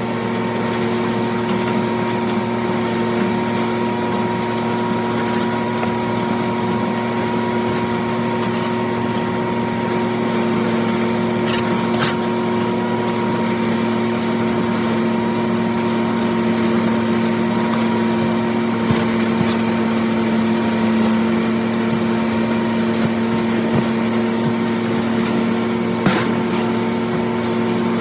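John Deere 4230 tractor's six-cylinder diesel running steadily, driving a New Holland 355 grinder-mixer's hammermill through the PTO while it grinds corn: an even, constant machine drone. A few sharp clicks stand out, one near the middle and one near the end.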